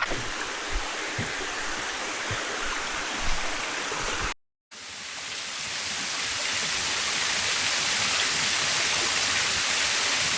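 Waterfall cascading into a pool: a steady rushing of falling water. It cuts out briefly about four seconds in, then comes back louder.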